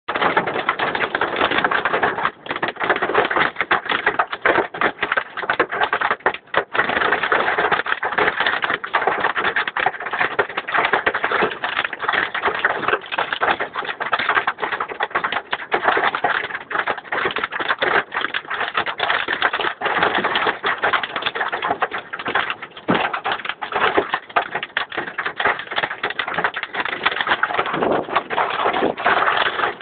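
Heavy rain and hail striking hard surfaces: a loud, dense, steady clatter of rapid sharp impacts.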